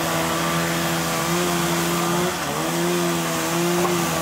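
A motor running steadily with a humming drone, dipping briefly in pitch about two and a half seconds in and then recovering, as if momentarily loaded.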